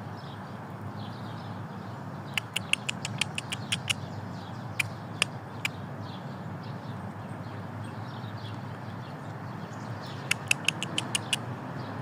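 A squirrel making sharp clicks in two quick runs, about six or seven a second, the first a couple of seconds in and the second near the end, with a few single clicks in between. A steady low background noise runs underneath.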